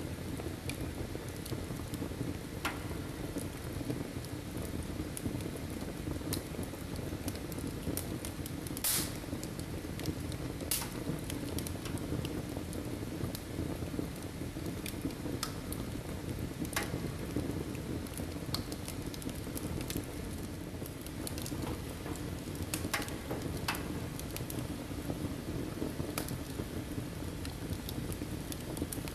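Wood fire burning in a fireplace: a steady low rush with scattered sharp crackles and pops at irregular intervals, the loudest about nine seconds in.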